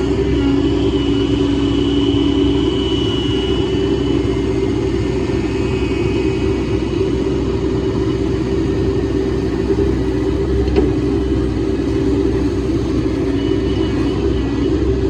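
Hydraulic excavator's diesel engine running steadily, with a thin high whine over it for the first few seconds and a single short knock near the eleventh second.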